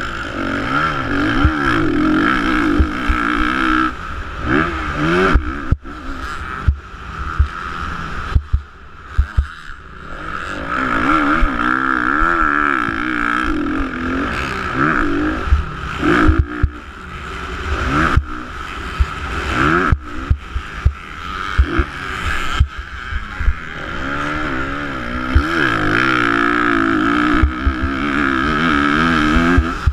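Motocross dirt bike engines racing, revving up and down over and over as the riders work the throttle, with frequent short low thumps.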